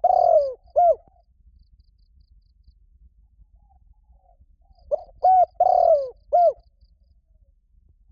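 Spotted dove cooing: a phrase of short hooting notes with one longer note that falls in pitch. The end of one phrase comes right at the start and a full phrase follows about five seconds later. It is the male's advertising call to a mate, used as a lure call.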